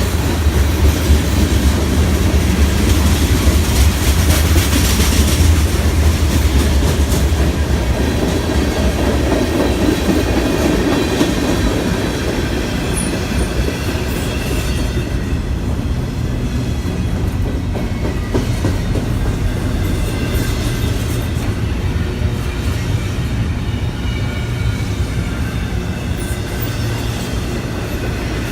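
Train passing on the track: a steady heavy rumble with wheels clacking over rail joints, loudest over the first several seconds and then easing off a little.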